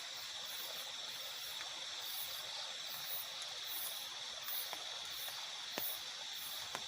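Night rainforest ambience in light drizzle: a soft, even hiss of rain, with a steady high insect drone and faint, evenly pulsing high chirps. A few sharp drip-like clicks stand out near the end.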